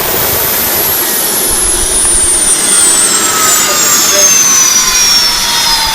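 Loud jet-engine-like roar from the malfunctioning air conditioner, with high whines that fall steadily in pitch as the unit powers down.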